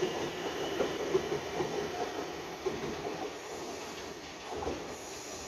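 Taiwan Railway EMU900-series electric multiple unit pulling out of the station and moving away, its wheels clicking over the rail joints. The sound fades steadily as the train draws off.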